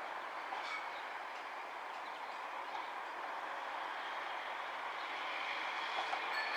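Northern Class 195 diesel multiple unit approaching, its running noise growing gradually louder as it comes closer.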